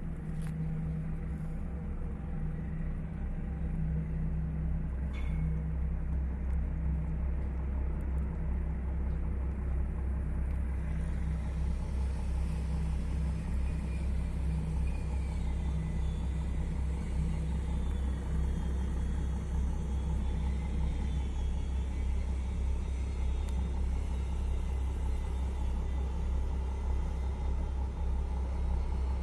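Steady low rumble of a car driving, growing a little louder over the first few seconds and then holding even.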